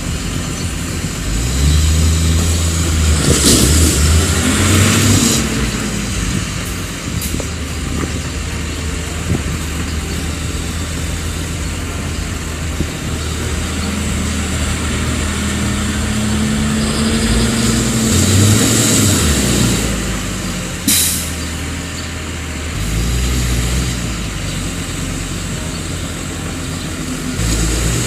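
Heavy diesel tractor engines running hard and revving up and down, with a short hiss about 21 seconds in.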